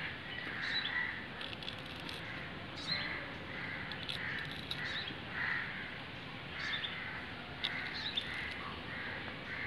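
Birds calling in the background: one bird repeats a soft call about twice a second, with short high chirps now and then.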